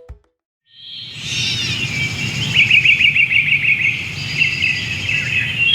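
Birds chirping and singing over a low background rumble, starting just under a second in after a brief silence, with a fast trill of repeated notes about two and a half seconds in.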